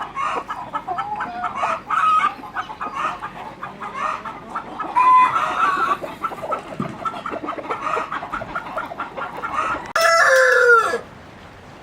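Chickens clucking continuously, with a louder call about five seconds in. A loud drawn-out call with falling pitch comes near the end and stops suddenly.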